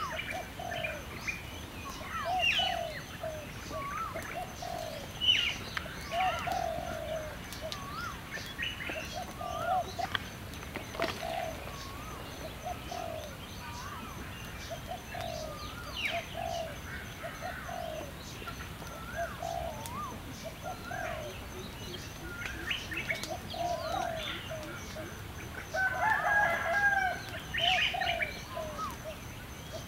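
Birds calling in the forest: a short low call repeats about once a second, with higher chirps and whistles scattered over it.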